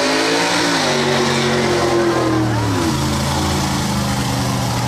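An off-road vehicle's engine revving: its pitch climbs, holds high for a couple of seconds, then drops about three seconds in and settles at a lower, steady speed.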